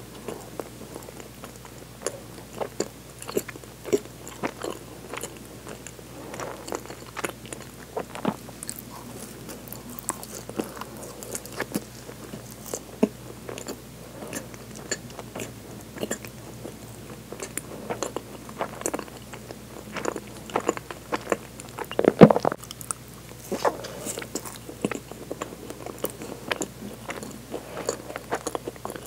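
Close-up chewing of soft, filled sweet bread buns: a steady stream of irregular wet mouth clicks and smacks, with one louder smack about twenty-two seconds in.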